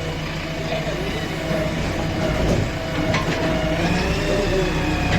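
Engine running steadily with a low hum and a wavering whine, with a couple of brief clicks about three seconds in.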